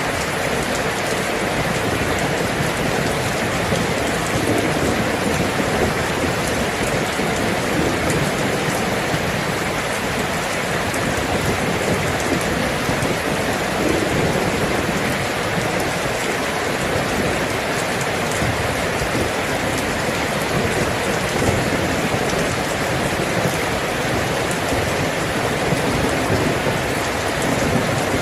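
Steady heavy rainfall: an even, unbroken hiss of falling drops.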